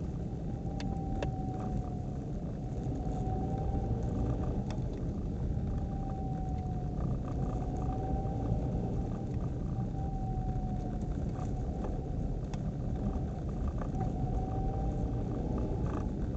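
Nissan Qashqai transmission howl: a thin, steady high-pitched whine over the car's low road and engine rumble while driving, swelling and dipping slightly in pitch every couple of seconds. A few faint clicks sound now and then.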